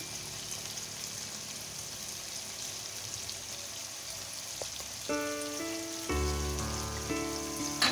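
Chicken and spices sizzling in hot oil in a frying pan, a steady hiss. Background music comes in about five seconds in, with a low bass joining a second later.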